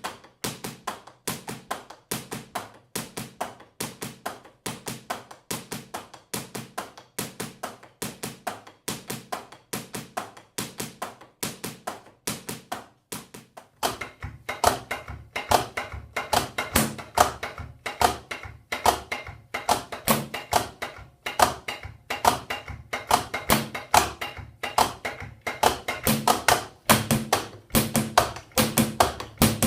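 Drumsticks striking the pads and rubber cymbals of a Roland TD-15 electronic drum kit, heard as the pads' own acoustic noise: a steady stream of dull taps, several a second. About halfway through it grows louder and deeper thuds join in.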